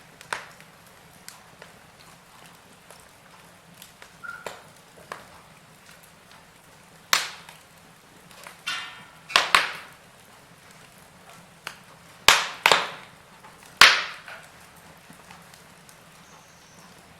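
Burning wood in a fire crackling, with irregular sharp pops and snaps: a few loud ones about seven, nine and a half, twelve and fourteen seconds in, and quieter ticks between them.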